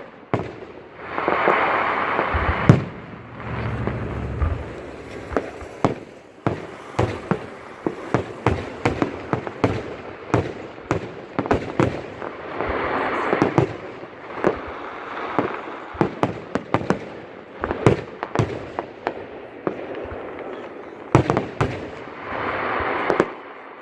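Fireworks display: a dense run of sharp cracks and pops, a low rumble about three seconds in, and a few stretches of steady crackling hiss.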